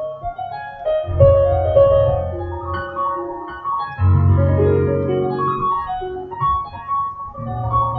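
Calm piano music: a melody of held notes over chords, with deep bass notes coming in about a second in and again about four seconds in.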